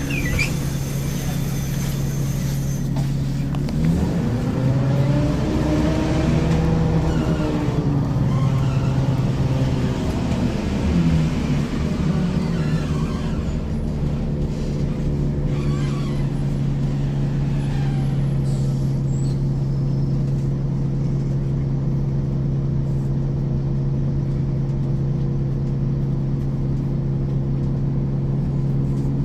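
1994 Ikarus 435 articulated bus with ZF gearbox, drivetrain heard on board: a steady low diesel hum. Between about 4 and 12 seconds in, an engine note rises and then falls again as the bus accelerates and eases off, then the hum runs on steadily.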